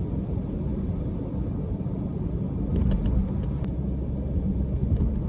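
Car driving on the road, its steady low rumble of road and engine noise heard from inside the cabin.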